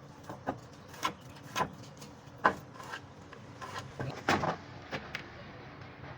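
Hand work on wood: a run of sharp, irregular knocks and taps, about ten in all, the loudest about two and a half seconds in, over a faint low hum.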